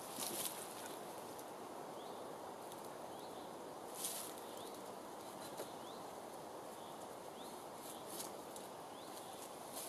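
Woodland ambience: a small bird giving short rising chirps every second or so over a steady outdoor hiss. A few brief rustles and knocks come from dead-wood branches of a stick frame being handled, the loudest just after the start and about four seconds in.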